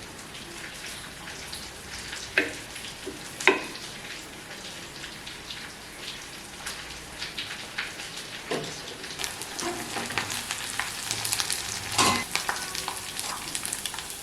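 Fish frying in oil in a kadai, a steady sizzle and crackle that grows busier in the last few seconds. A few sharp utensil clinks come about two, three and a half, eight and a half and twelve seconds in.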